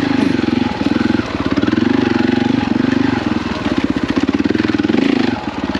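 KTM 450 EXC dirt bike's single-cylinder four-stroke engine running under load, revs rising and falling with the throttle. It eases off briefly about a second in and again near the end.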